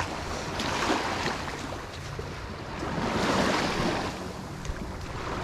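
Small bay waves washing onto a beach in soft surges every couple of seconds, with wind buffeting the microphone.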